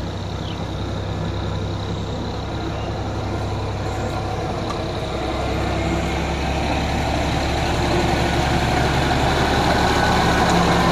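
Ford 3610 tractor's three-cylinder diesel engine running steadily, growing gradually louder.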